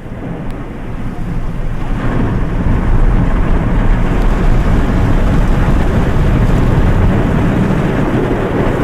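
Automatic car wash machine washing a kei car, heard from inside the cabin: a steady rush of water spray and washing against the body and windows, swelling louder about two seconds in.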